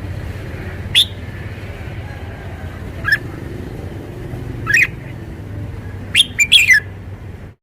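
Red-whiskered bulbul calling in short, sharp high notes, single calls about every two seconds, then a quick run of several notes near the end, over a steady low background rumble.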